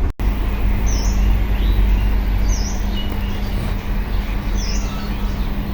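Mahindra B275 DI tractor's diesel engine running steadily with a low rumble, while a bird chirps about every two seconds over it.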